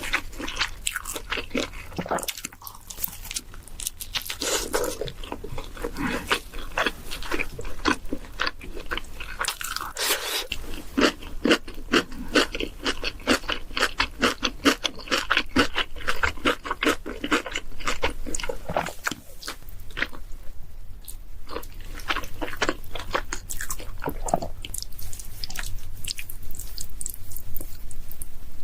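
Close-miked chewing of pizza: rapid runs of crisp crunches from the crust between bites, pausing briefly a few times.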